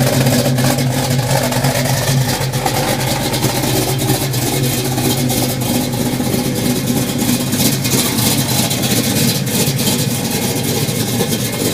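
1970 Dodge Challenger engine running steadily, a continuous low drone with a fast ticking on top.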